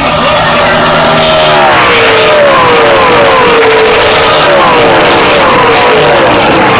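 A pack of NASCAR truck-series V8 race trucks running at full throttle as they pass by, several engine notes falling in pitch one after another.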